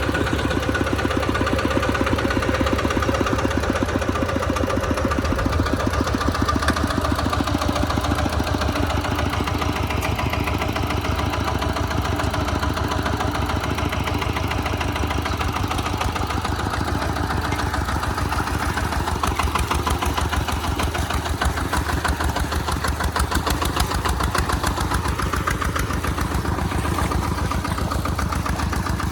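RT140 Plus single-cylinder diesel engine of a walking tractor running steadily, with a rapid, even chugging of firing pulses, while plowing in mud.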